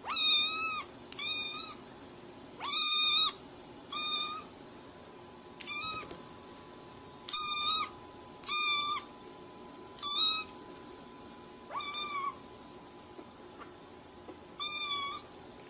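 An animal giving about ten short, high-pitched calls, each about half a second long, at irregular intervals; the third is the longest.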